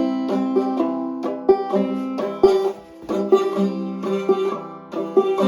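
Five-string banjo played clawhammer style on a C chord, the strings struck in a steady rhythm with sharp plucked attacks that ring on.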